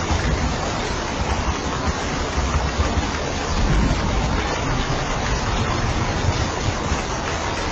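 Steady heavy rain falling on a roof, a dense even hiss with a low rumble underneath.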